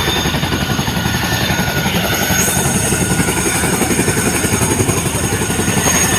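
Chinook tandem-rotor helicopter running close by: a loud, steady rapid beat of rotor blades with a high turbine whine over it, the whine growing brighter about two and a half seconds in.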